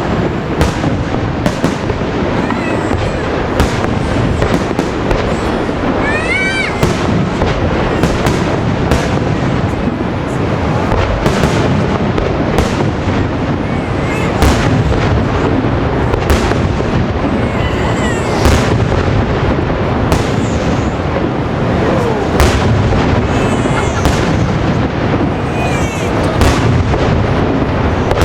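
Large fireworks display: shells bursting in quick, continuous succession, several reports a second, over a steady rushing background.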